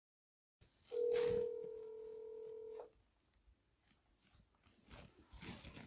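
Telephone ringback tone on an outgoing call: one steady ring about two seconds long, then faint clicks on the line as the call is being answered.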